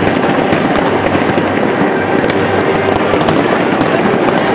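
Fireworks display: a dense, continuous barrage of rapid bangs and crackles with no pause.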